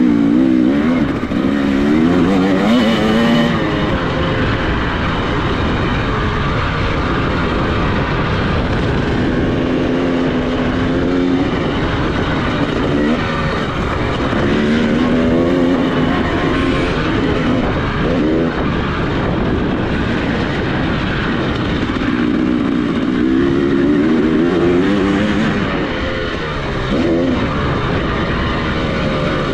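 Dirt bike engine being ridden hard, revving up and dropping back again and again as the throttle opens and closes and the gears change, over a constant rush of noise.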